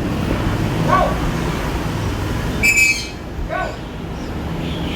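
Birds calling over a steady background noise: short rising-and-falling calls twice, about two and a half seconds apart, and one brief shrill chirp near the middle.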